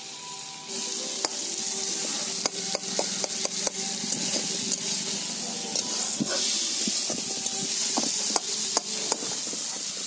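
Bayenra fish curry frying in oil in a kadai over a wood fire: a steady sizzle that swells about a second in. A metal spatula stirs it, scraping and clicking against the pan many times.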